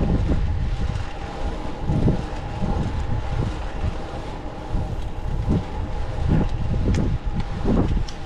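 Wind buffeting the microphone while riding a fixed-gear bicycle: uneven low rumbling gusts, over a steady faint hum.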